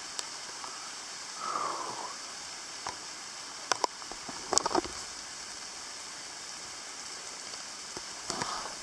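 Steady rain falling on the forest leaves, a fine even hiss, with a few sharp taps of drops or handling about four seconds in.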